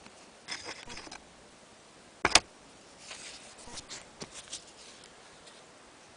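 Handling noises: a cluster of clicks and rustles, one sharp knock a little over two seconds in, then more irregular clicks.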